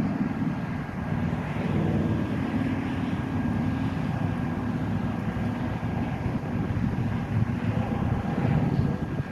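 An engine running steadily: a low drone that holds for the whole stretch, with a thin, faint high whine over it.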